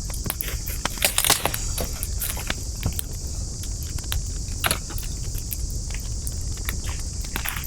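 Wood campfire crackling: irregular sharp pops and snaps, with a quick burst of them about a second in, over a steady high hiss and a low rumble.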